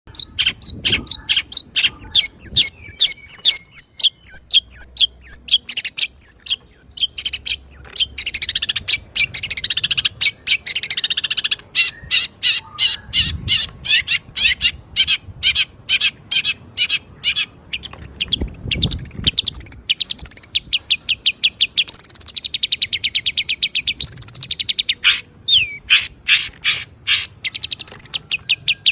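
Songbird singing a long, fast, varied song of rapid chirps, quick up-and-down whistled sweeps and buzzy trills, with hardly a pause.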